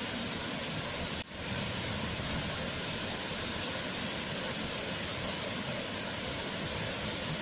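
Waterfall rushing: a steady, even noise of falling water, broken by a split-second dropout about a second in.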